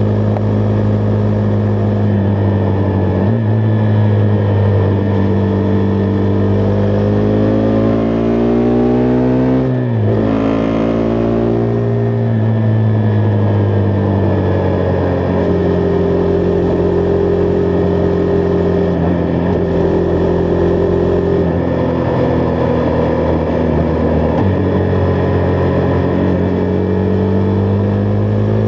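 Husqvarna Vitpilen 401's single-cylinder engine running under way, holding fairly steady revs. About halfway through it climbs steadily in pitch for several seconds, then drops sharply at a gear change about ten seconds in, with smaller shifts in pitch near the start and end.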